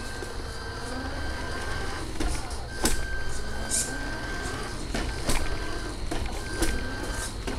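A 1/14 scale RC Scania R470 truck running: a high steady whine that comes and goes several times over a low hum, with several sharp clicks and knocks.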